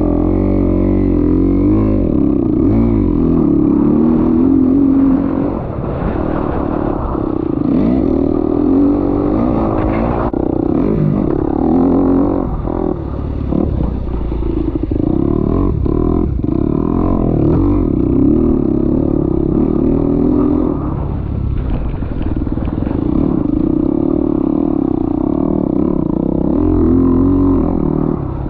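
Kawasaki KX250X four-stroke single-cylinder dirt bike engine being ridden hard, its note climbing and dropping again and again with throttle and gear changes. The note breaks off briefly a few times near the middle.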